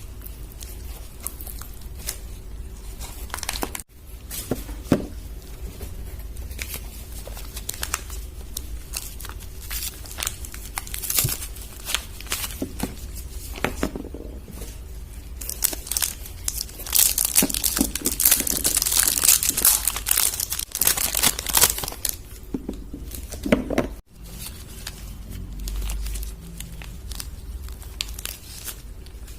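Soap wrappers being crinkled and torn open as bars of soap are unwrapped: irregular crackling, thickest and loudest a little past the middle.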